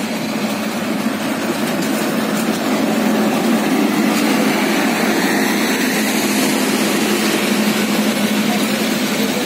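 Passenger train's carriages moving slowly past: a steady running noise with a low, even hum. It swells slightly about three seconds in.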